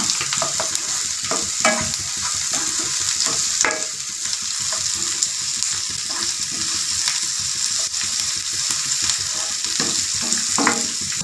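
Chopped onion and green capsicum sizzling in oil in a nonstick frying pan, with the scrape and tap of a spatula stirring them now and then.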